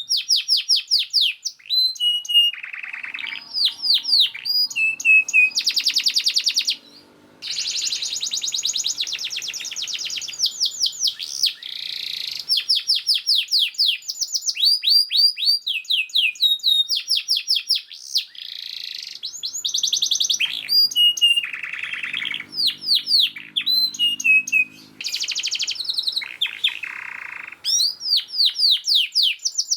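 Domestic canary singing a fast, dense song: quick runs of repeated downward-sweeping notes alternating with buzzy trills, with a brief break about seven seconds in.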